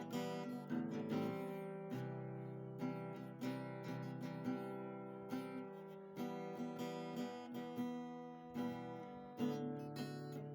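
Background music: acoustic guitar strumming and plucking chords, with the chords changing every second or two.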